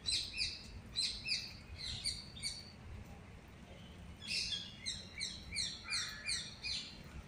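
Birds chirping in quick runs of short, high, falling notes, with a pause of about a second partway through before a faster run.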